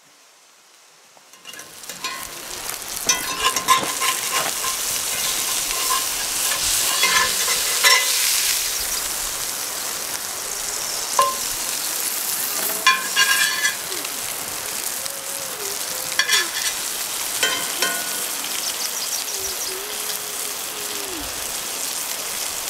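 Fish frying in a hot skillet: steady loud sizzling that starts about a second and a half in, with scattered sharp clicks and pops over it.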